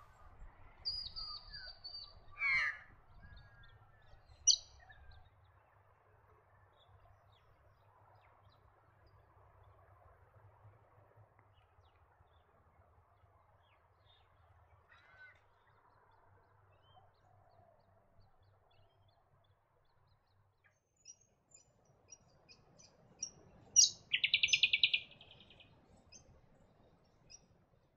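Brown honeyeater calling: a few short, clear high calls in the first seconds, then quiet, then a loud rapid run of notes near the end.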